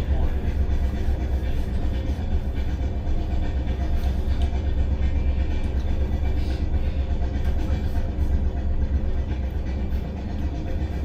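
Steady running rumble of a Class 455 electric multiple unit under way, heard from inside the carriage.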